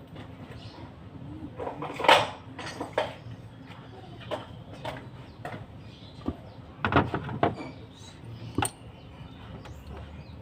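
Irregular knocks and clatter of hard objects being handled, the loudest about two seconds in, with a quick cluster around seven seconds.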